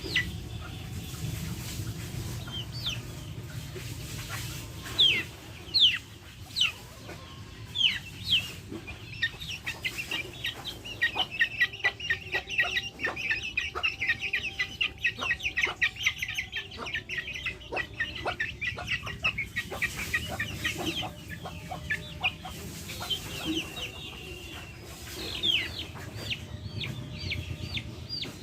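Backyard chickens clucking and calling, with short high chirps scattered throughout and a dense, rapid run of them for several seconds in the middle.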